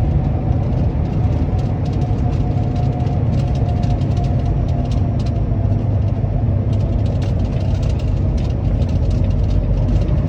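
Engine and road noise inside a truck cab moving at highway speed: a steady low rumble with a faint engine whine, and scattered light clicks.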